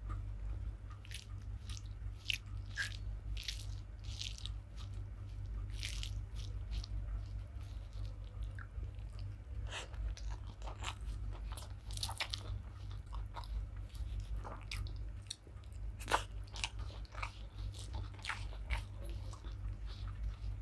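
Close-up eating sounds of a person chewing rice with okra in mustard sauce: wet mouth smacks and short crisp clicks at irregular intervals. A steady low hum runs underneath.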